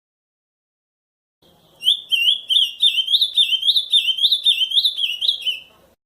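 Ultramarine grosbeak (azulão) singing its camaquã song: one phrase of quick, slurred whistled notes, about three or four a second, starting about a second and a half in and lasting about four seconds.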